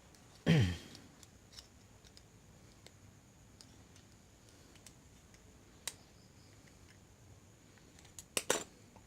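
Small metal parts being handled while a bolt is fitted through a mounting plate: a louder knock with a short falling ring about half a second in, faint scattered clicks, and a quick run of clinks near the end.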